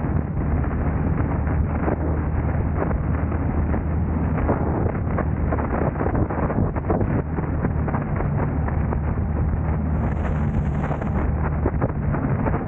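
Car on the move: a steady low drone of engine and road noise, with wind buffeting the camera's microphone throughout. About ten seconds in, a brief higher hiss lasts about a second.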